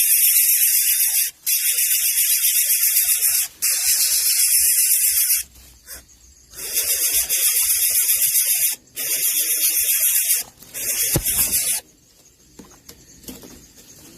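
Nestling birds giving harsh, hissing begging calls in long stretches broken by short pauses, stopping about twelve seconds in.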